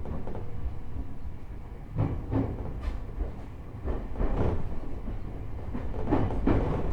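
Inside a JR East E127 series electric train car: steady low running rumble with the wheels knocking over rail joints, the knocks coming in pairs about half a second apart, roughly every two seconds.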